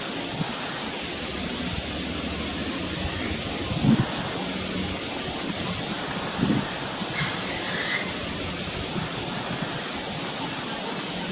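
Steady rushing noise like running water, with a few brief high bird chirps about seven to eight seconds in and a couple of low bumps.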